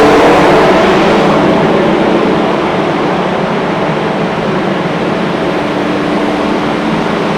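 Large industrial screw air compressor running: a loud, steady machine noise with a faint hum that eases slightly in level over the first couple of seconds.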